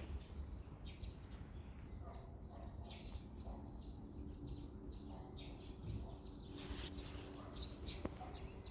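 Small birds chirping on and off, short high calls scattered through, over a steady low rumble.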